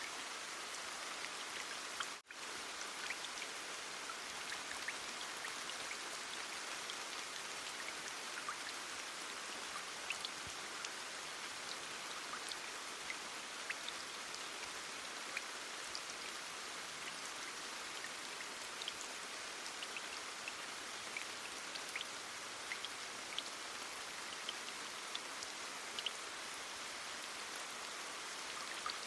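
Heavy rain falling steadily: an even hiss with many scattered sharp drop ticks. The rain cuts out for a split second about two seconds in.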